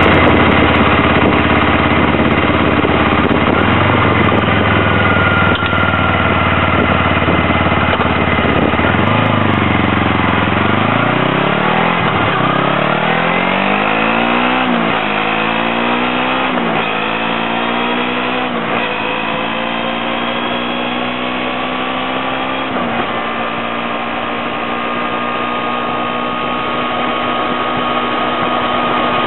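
2008 Kawasaki Ninja 250R's parallel-twin engine idling steadily, then pulling away about nine seconds in and rising in pitch through about four upshifts, each a sudden drop in pitch, before holding a steady cruising pitch for the last few seconds.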